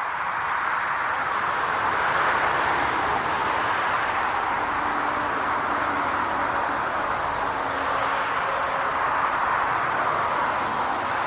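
Jet airliner engines running, a loud steady rushing noise that swells and eases slowly.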